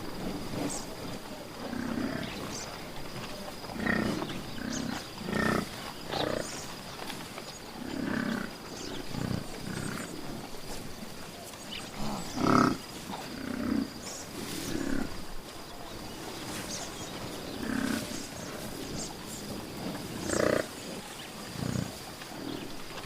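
Large animals calling in short, low grunts and growls, repeated every second or two, the loudest about halfway through. A faint steady high whine runs underneath.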